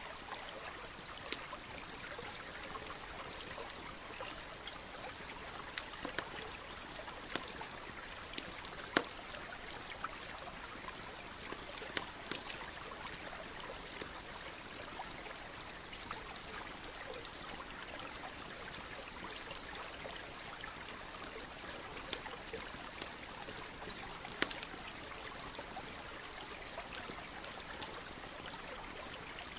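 Campfire crackling, with irregular sharp pops, over the steady running of a nearby stream.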